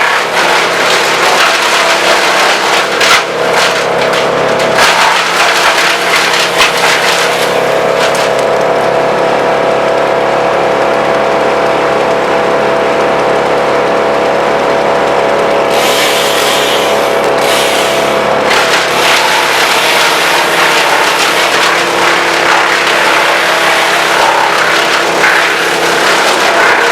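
Vermeer BC1000 wood chipper running loud and steady, with dense crackling and snapping of wood being fed through and chipped; the chipping eases off into a smoother steady drone for several seconds in the middle, then picks up again.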